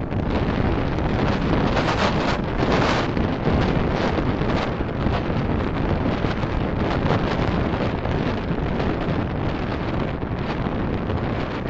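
Steady rushing wind and road noise from a car being driven, buffeting the dashcam's microphone.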